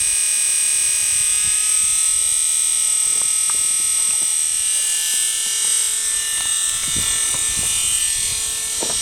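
Small 12 V ventilation fan running with a steady high-pitched buzz, super loud because its blades are hitting a piece of wood left where its hole was drilled.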